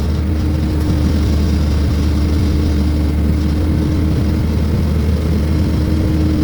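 Heavy diesel engine running steadily at constant speed: a loud, even low drone with a steady higher tone held above it.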